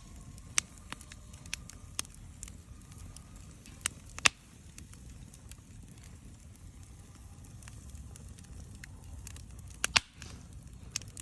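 Wood fire crackling in a Snow Peak fire pit: irregular sharp pops, the loudest about four seconds in and near the end, over a low steady rumble.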